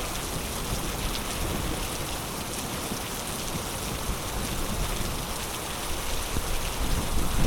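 Heavy rain pouring steadily, a dense even hiss of downpour on surfaces.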